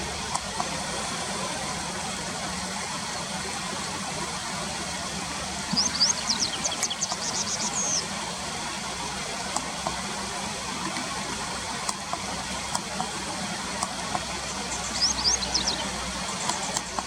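Japanese wagtail calling: two short runs of quick, high, sharply sliding notes, one about six seconds in and a shorter one near the end, over a steady rushing background noise.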